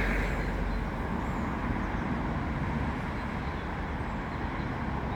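Vehicles running, a steady rumble that eases off as they slow to a stop.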